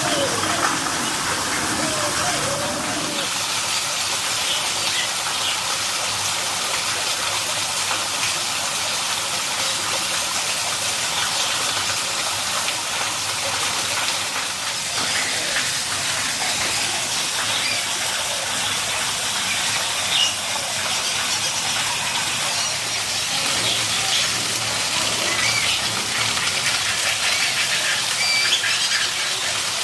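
Steady rushing hiss, with scattered short, high bird chirps over it and faint voices during the first few seconds.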